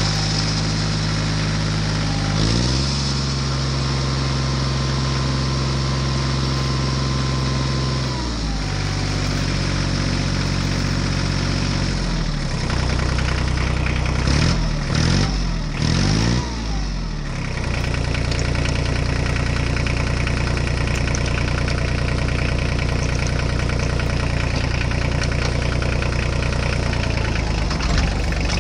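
An engine idling steadily, its pitch shifting a few times, with quick revs up and down about halfway through. The plastic toy loader in the picture has no engine, so this is an engine sound effect laid over the toy digging.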